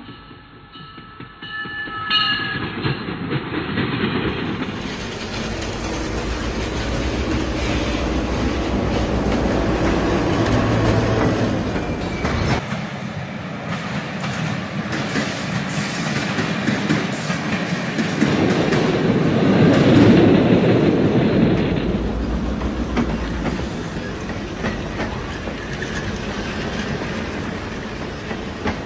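Train running along the track, its wheels clattering over the rails.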